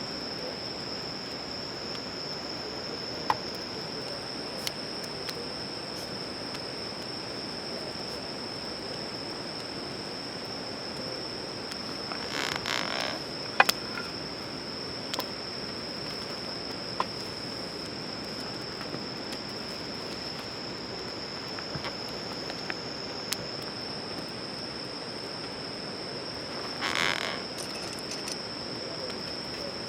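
Steady chorus of insects holding one high, unbroken note, with scattered sharp little clicks and two brief rustling bursts, one a little before the middle and one near the end.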